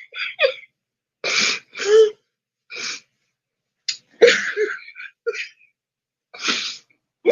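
A person's short, breathy vocal outbursts without words: about six separate bursts with silences between, the sounds of someone who has lost composure and is trying to catch her breath.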